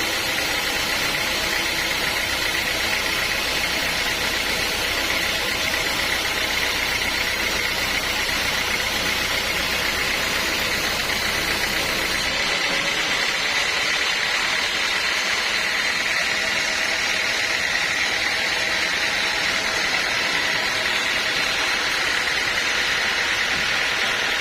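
Sawmill machinery running steadily: a dense mechanical noise with a steady whine. About halfway through, the low rumble drops out abruptly and the whine carries on.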